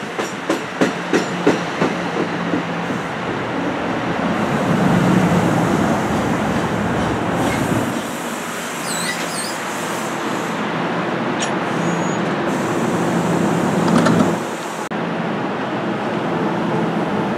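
Passenger train rolling past, its wheels clicking over rail joints about three times a second at first, then a steady rumble of the cars going by. The sound changes abruptly about fifteen seconds in.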